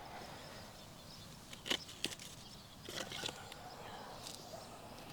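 Quiet outdoor ambience with a few faint, brief clicks and taps around the middle.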